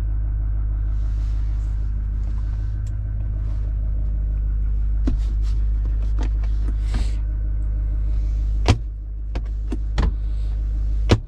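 Pickup truck engine idling steadily, a low even rumble, with three sharp clicks near the end.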